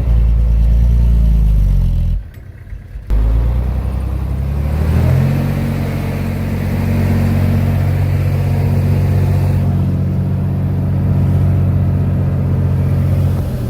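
Heavy-equipment diesel engine running under load, cutting out abruptly for about a second near the start, then rising in pitch as it revs up and holding steady at the higher speed.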